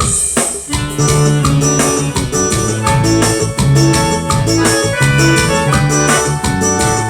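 Forró band playing the instrumental intro of a song, with held melody notes over a steady, even beat.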